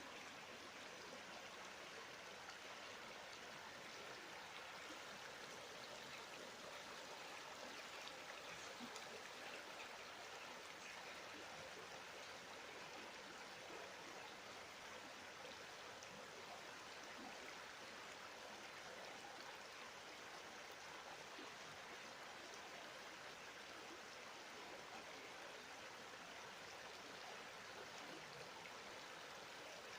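Duratón river flowing: a steady, soft rush of running water.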